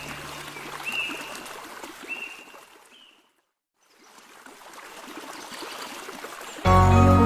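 Steady trickling, water-like noise with a few short, high chirps in the first three seconds. It fades out to silence for under a second, fades back in, and music begins near the end.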